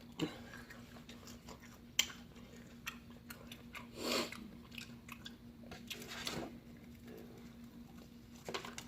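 Close-miked chewing and lip-smacking on chicken wings: scattered sharp clicks and crunches, with a few louder wet smacks about four and six seconds in.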